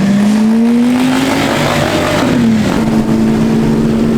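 Car engine revving, its pitch climbing steadily for about a second and a half, then wavering and holding at a steady higher note, over loud traffic noise.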